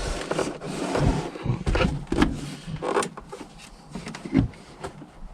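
Irregular knocks, taps and rubbing as a car's interior boot trim is handled and pulled out, with a few louder knocks a little past halfway.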